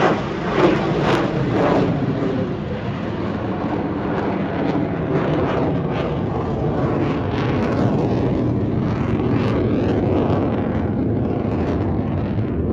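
Aircraft flying overhead, its engine noise loud and steady.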